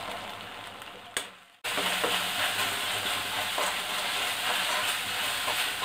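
Onion, garlic, chilli and sauce mixture sizzling in hot oil in a kadai while being stirred with a slotted metal spoon. The sizzle is faint at first, drops out briefly about a second and a half in, then returns louder and steady.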